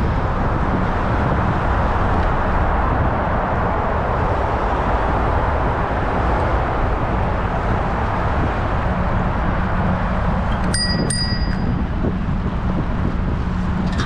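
Wind rushing over the microphone of a moving bicycle. About eleven seconds in, a bicycle bell rings twice in quick succession.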